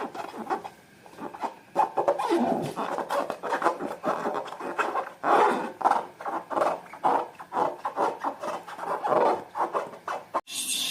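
Slime being squished and kneaded by hand, an irregular run of sticky squelches and clicks. Just before the end it cuts abruptly to a steady hiss.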